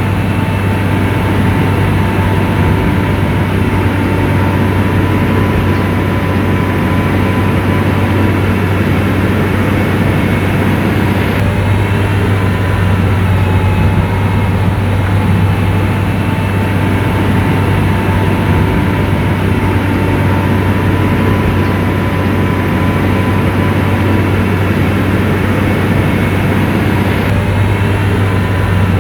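SDLG motor grader's diesel engine running steadily with a deep, unbroken drone.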